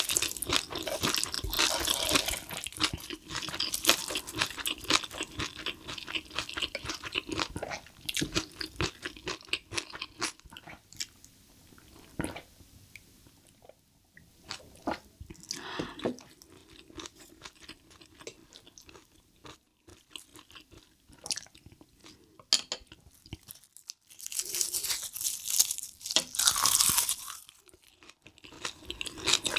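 Close-miked eating sounds: crunching and chewing of roasted seaweed wrapped around spicy stir-fried cuttlefish, with wet mouth noises. It is busy at the start and quieter through the middle, with a brief sip from a bowl, then comes a loud stretch of crunching near the end.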